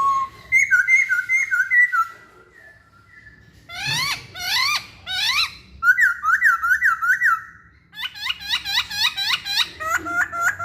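Black-throated laughingthrush (poksay Hongkong) singing: loud, clear whistled phrases of quickly repeated rising notes, in bursts with short pauses between them.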